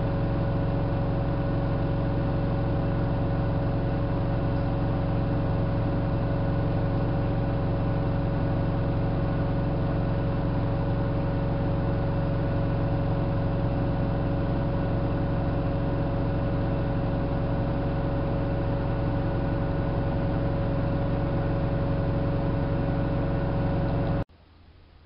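Hanseatic HWM814A3D washing machine running at a constant speed: a steady motor whine over the hum of the drum. The sound cuts off suddenly near the end.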